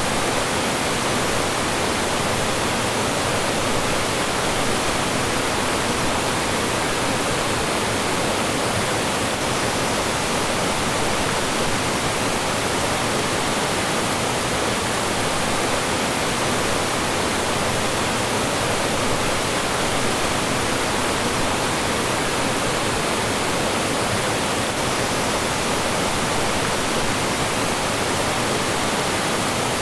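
Mountain stream rushing and splashing over rocks and small falls, a steady, full rush of water.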